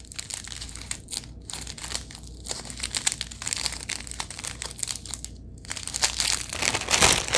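Small plastic baggies of diamond painting drills crinkling and rustling as they are handled, a dense run of crackles that grows louder near the end.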